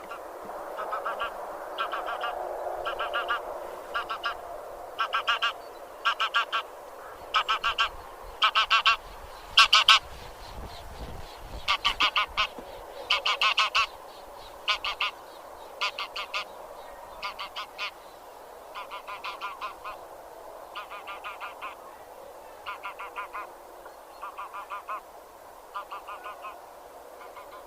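Geese of the genus Anser (grey geese) honking in quick bursts of repeated short calls, one burst after another, over a steady lower murmur.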